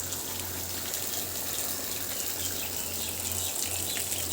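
Steady rush of running water with a low hum beneath it.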